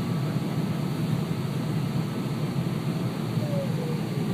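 Steady airliner cabin noise on approach: the even rumble of engines and airflow heard from inside the passenger cabin. A faint falling tone shows up near the end.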